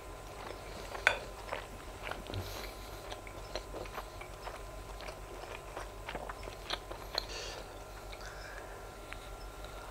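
Close-up chewing of grilled sausage: irregular wet mouth clicks and smacks, with one sharper click about a second in.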